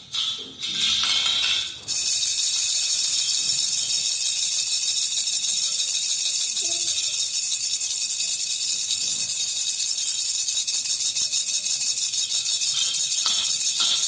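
Star-shaped khulkhula baby rattle being shaken: a few short shakes, a brief pause just before two seconds in, then continuous rapid rattling.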